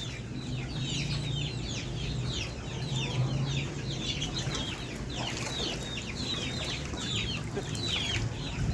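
A flock of chickens calling: a continuous chatter of short, high, downward-sliding peeps and clucks, several a second, over a low steady hum.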